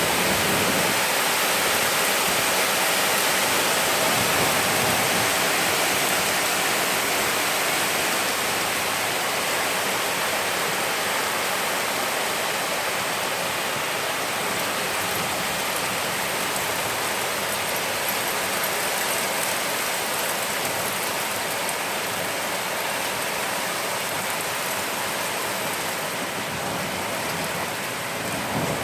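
Heavy hailstorm: hail and rain pelting down in a dense, steady hiss that eases slightly after the first several seconds.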